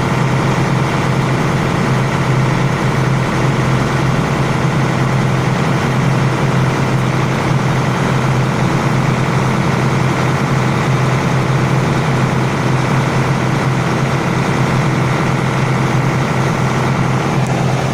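Machinery running steadily with a strong low hum that does not change.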